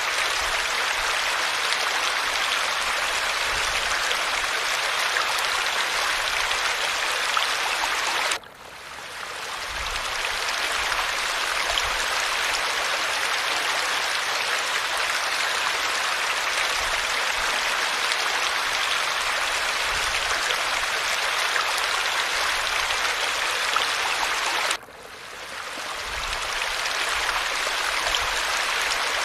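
Falling water running as a steady hiss. It drops out abruptly twice, about eight seconds in and near twenty-five seconds, and each time swells back in over a couple of seconds, as at the joins of a looped recording.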